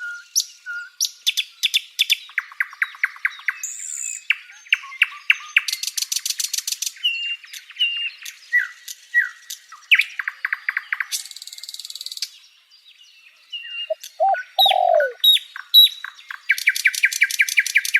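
Songbirds singing a varied run of phrases: rapid buzzy trills, clear whistled notes that slide down in pitch, and short chips. A lower, falling whistle comes about three-quarters of the way through, and a fast trill closes the run before it cuts off.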